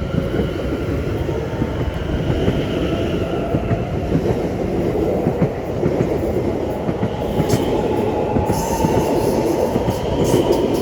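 A Greater Anglia Class 720 electric multiple unit pulling away from the platform and running past at close range, its wheels rumbling on the rails. A faint motor tone rises slowly in pitch as the train gathers speed, with a few sharp clicks in the second half.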